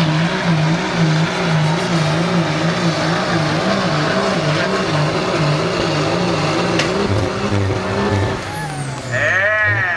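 Diesel truck engine at full throttle pulling a sled, its pitch wavering up and down about twice a second. About seven seconds in the engine note drops lower and a high whine glides down, the truck losing drive as its driveshaft breaks.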